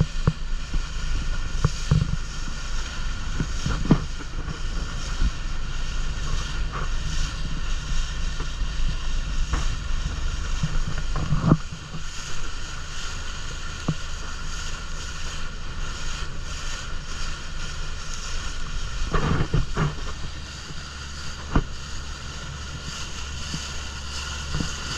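Boat engine running steadily under way, with wind on the microphone. The low rumble drops away about halfway through, and a few short knocks and bumps come through, the loudest near the middle and about three-quarters of the way in.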